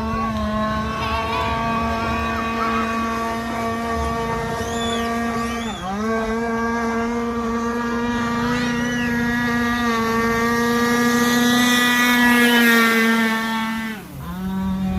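Zenoah 26cc two-stroke petrol engine of an RC V-hull boat running at a steady high pitch, dipping briefly about six seconds in and again near the end as the throttle eases.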